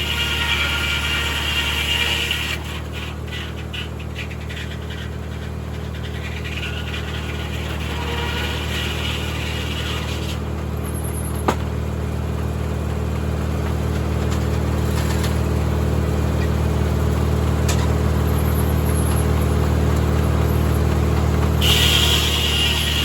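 A 1950 Corley circular sawmill running steadily, driven by a tractor engine. A higher-pitched sound drops away after about two and a half seconds and comes back near the end. There is a single sharp click about halfway through.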